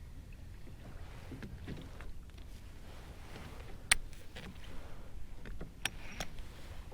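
Water lapping against a fishing kayak, with a few sharp clicks and knocks on the boat or tackle; the loudest click comes about four seconds in.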